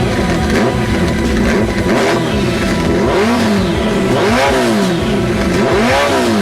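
Motorcycle engine blipped repeatedly through its freshly repacked Sebring carbon oval muffler, the pitch rising and falling with each rev, over background music with sustained tones.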